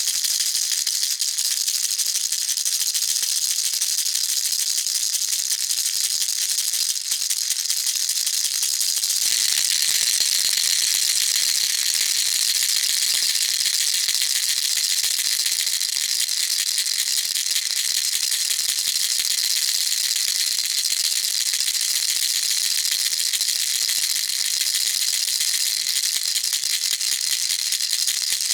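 Baby rattle shaken without pause, a dense, high-pitched rattle of small loose pieces. The rattling grows slightly brighter about nine seconds in.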